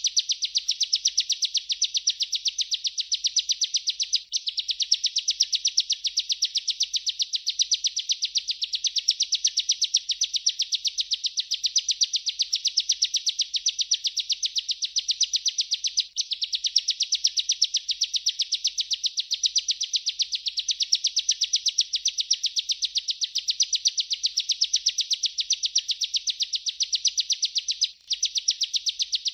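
Bar-winged prinia (ciblek) singing a continuous rolling song ('ngerol'), a very fast run of high, rapidly repeated notes, broken only by brief gaps about 4, 16 and 28 seconds in.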